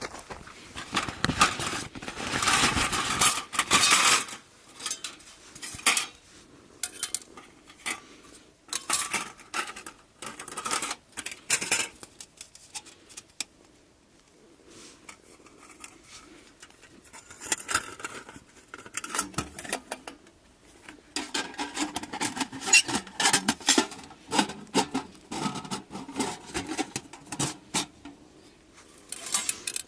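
Camp gear being handled: irregular clinks and knocks of metal cookware or utensils, with rustling between them, loudest in a few busy stretches.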